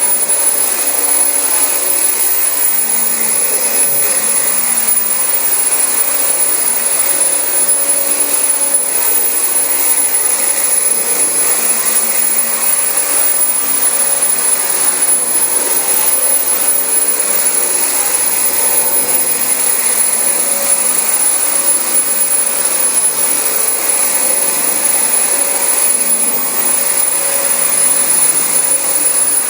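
Dyson DC25 bagless upright vacuum cleaner running steadily on carpet: an even rush of air with a steady high whine.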